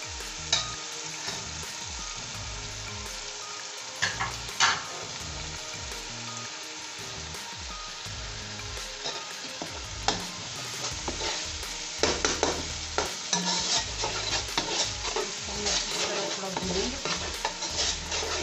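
Ginger-garlic paste and crushed green chillies sizzling in hot oil in a pot as they are fried through. A spoon stirring them scrapes and knocks against the pot, the strokes coming much more often from about two-thirds of the way in.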